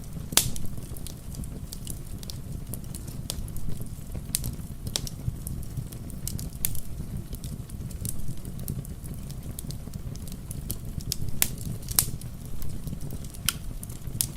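Wood fire crackling, with irregular sharp pops over a steady low rumble, and rain falling.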